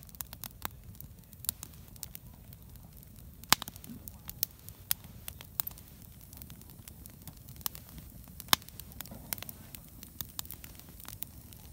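Wood campfire crackling, with irregular sharp pops over a low steady rumble of the burning fire.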